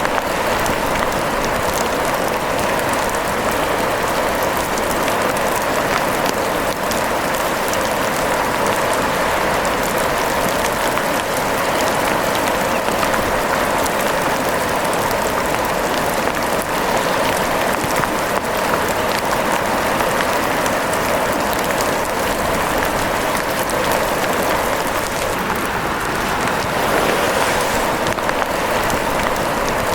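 Steady rain falling: an even, unbroken hiss with many fine drop ticks.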